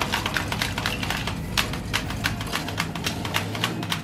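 Hard plastic parts of a Hot Wheels Rapid Launcher toy clicking and clattering as it is handled, a rapid irregular run of small clicks, several a second.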